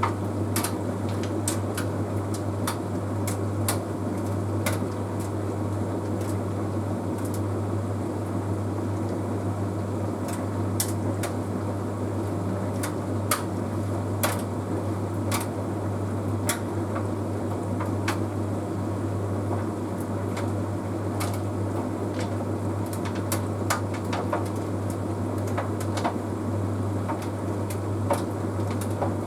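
Bosch Series 6 WQG245R9GB heat pump tumble dryer running in the final minute of an Easy Care cycle: a steady low hum with irregular light clicks, about one or two a second.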